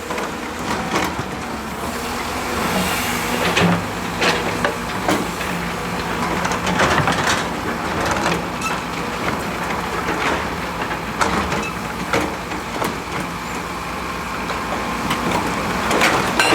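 Diesel engine of heavy earthmoving machinery running steadily, with irregular clanks and knocks scattered throughout.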